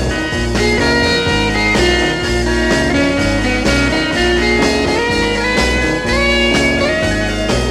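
Instrumental psychedelic rock: an electric guitar plays bending, held lead notes over bass and drums, with no singing.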